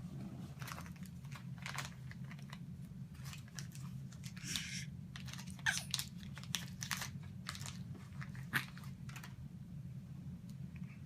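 Scattered small clicks, crinkles and rustles of things being handled close by, over a steady low hum.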